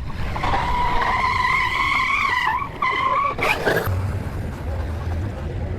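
Tyres squealing in a long skid: one steady high-pitched squeal that breaks off briefly and resumes. It ends in a short rush of noise about three and a half seconds in, followed by a low hum.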